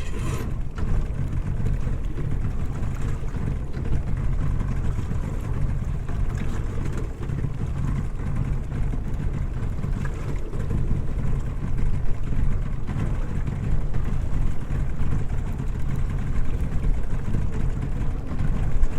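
Steady low rumble of a small fishing boat at sea, its motor running and wind on the microphone, with a short knock just after the start.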